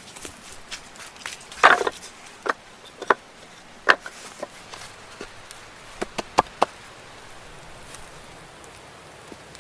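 Irregular sharp chopping knocks on wood, the loudest about two seconds in and a quick run of four a little past the middle, over a steady faint hiss.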